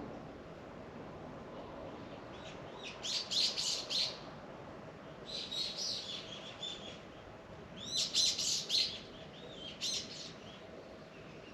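A songbird singing short phrases of quick high notes: three main bursts a couple of seconds apart and a shorter one near the end, over a faint steady background hum.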